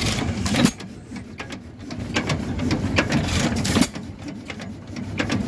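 Waterloo Boy hopper-cooled stationary engine running with a steady mechanical clatter, broken by sharp loud strokes at uneven spacing, the loudest about half a second in and again near four seconds in.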